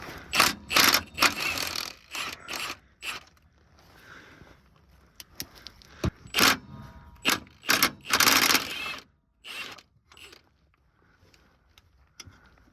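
Hand tools and metal parts clanking and scraping as a pickup's old transmission mount is unbolted and pried off: irregular clicks and knocks, with a couple of longer rasping spells, one near the start and one about eight seconds in.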